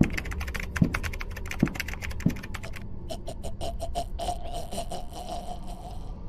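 Rapid typing on a computer keyboard, a dense run of key clicks with a few heavier thuds in the first couple of seconds. A steady tone comes in about halfway under the typing.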